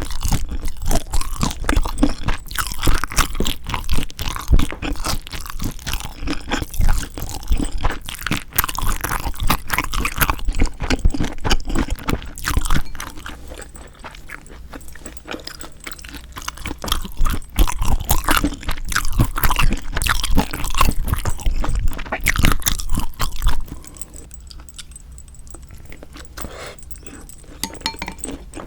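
Close-miked eating sounds of spicy seasoned raw marinated shrimp: steady wet chewing and crunching, with dense short crackles. It eases off to quieter chewing about halfway and again near the end.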